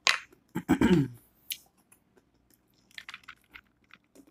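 A person chewing food close to the microphone, with wet mouth sounds. A short vocal sound comes about half a second in, and a run of small soft clicks near the end.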